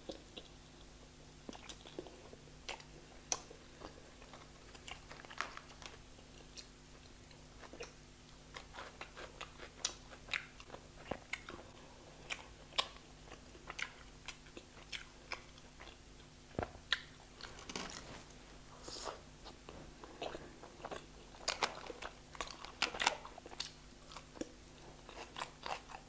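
Close-up eating sounds of a person biting and chewing chicken tikka: irregular wet mouth clicks and smacks, growing louder and more frequent in the second half.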